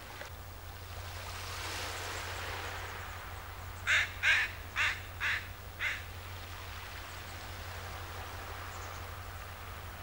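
A bird gives five short calls in quick succession, each fainter than the last. Under them runs a steady noise of wind and water at the shoreline.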